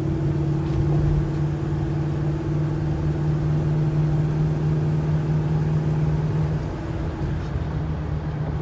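Ford F450 tow truck's V10 gas engine running at a steady cruise while driving, a steady low drone over road rumble that eases off about two seconds before the end.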